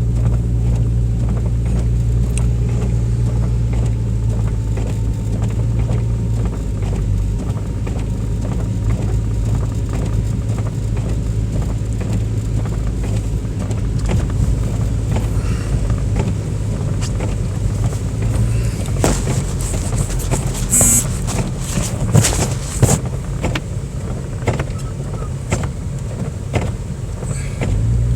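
Car driving on snowy city streets, heard from inside the cabin: a steady low engine and road hum, with a cluster of short clicks and knocks about two-thirds of the way through.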